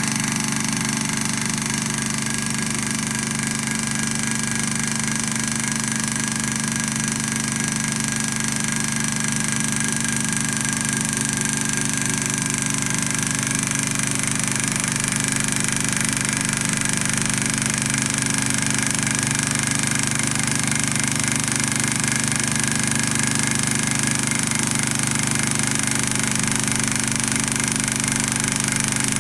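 Beta-type Stirling engine running fast and smoothly at a steady speed, around 1550 rpm. Its mechanical running sound holds one even pitch throughout.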